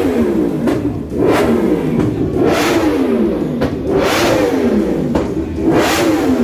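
An engine revving hard over and over, about four times. Each rev climbs quickly in pitch and then falls away slowly.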